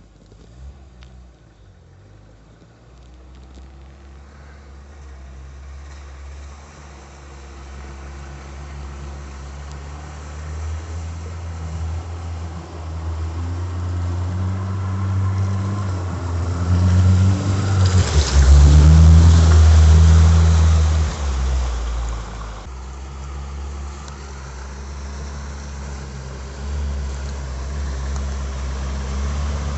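LuAZ off-roader's VAZ 21083 1.5-litre four-cylinder engine running under way, growing steadily louder. It is loudest about 18 to 21 seconds in, with a burst of rushing noise, then settles to a lower steady drone.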